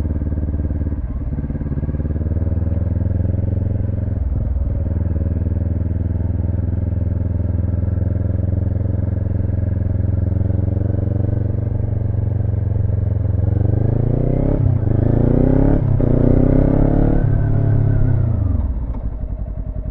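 Motorcycle engine running at low revs, then about two-thirds of the way in it revs up, dips briefly at a gear change, climbs again, and drops back toward idle near the end as the bike slows for a stop: an acceleration run and firm braking stop in an emergency-braking practice drill.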